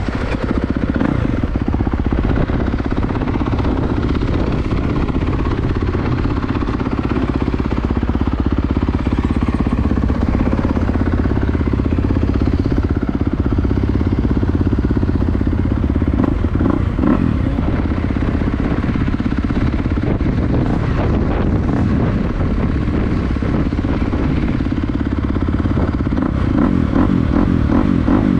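2022 Kawasaki KX250 motocross bike's single-cylinder four-stroke engine running steadily as it is ridden.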